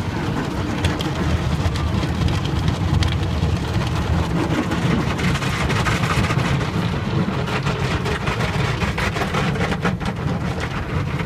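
Car driving: steady road and engine noise, strong in the low range with a hiss above.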